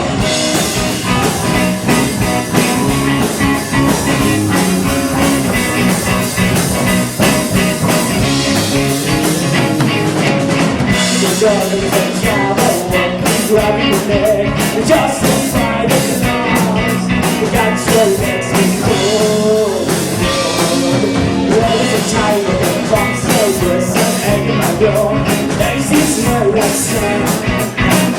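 Rock band playing live with electric guitar and drums, recorded from the room.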